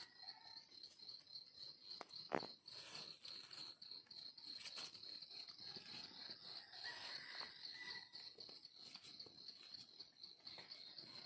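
Insect trilling steadily in forest, a high, rapidly pulsing note, with one sharp click about two and a half seconds in.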